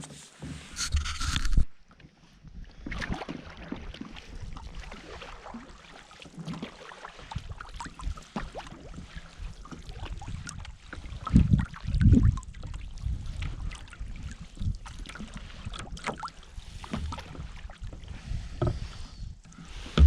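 Canoe paddling on calm water: irregular splashes and drips of paddle strokes, with a couple of strong low thumps about halfway through. A noisier stretch at the start cuts off abruptly after a second or two.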